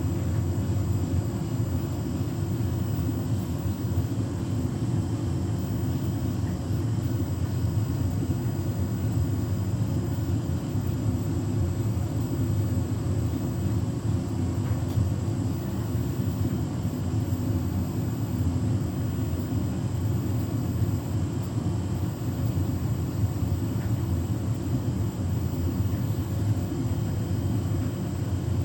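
Beko WTK104121W washing machine in its final spin, set to 1400 rpm, its drum spinning at a steady speed with a low, even drone.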